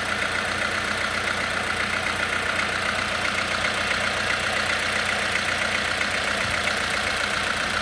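Audi A2 1.4 BBY four-cylinder petrol engine, converted to LPG and with about 350,000 km on it, idling steadily.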